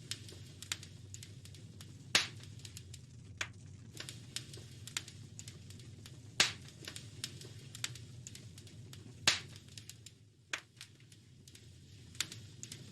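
Wood fire crackling in a fireplace: irregular small snaps and ticks, with three loud pops about two, six and nine seconds in, over a low steady rumble.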